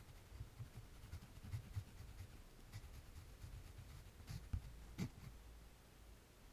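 Faint pencil drawing on paper: soft scratching strokes and light taps, with two sharper knocks about four and a half and five seconds in.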